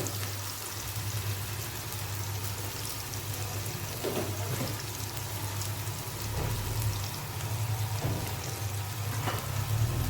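Chopped onion sizzling in hot oil in a frying pan while it sautés down, a steady crackling hiss. A few light knocks come through at intervals, with a steady low hum underneath.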